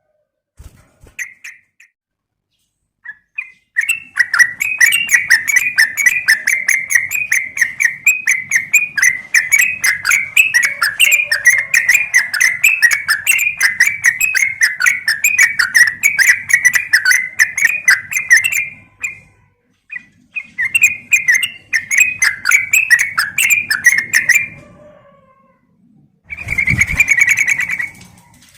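Yellow-vented bulbul (trucukan) chattering: a long, rapid run of repeated chirps, several a second, then a pause and a shorter second run. A brief noisier burst comes near the end.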